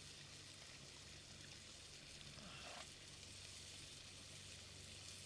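Faint, steady sizzling of pork and garlic stir-frying in a skillet over an open fire.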